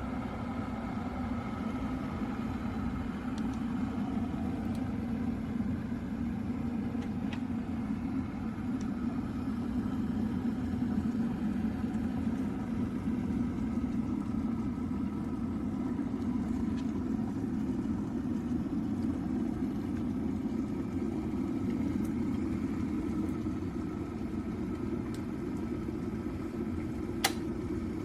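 OVENTE KG83B 1.5-litre glass electric kettle heating water to a full boil with a steady rumble. Near the end a single sharp click comes as the kettle's automatic shut-off switches it off.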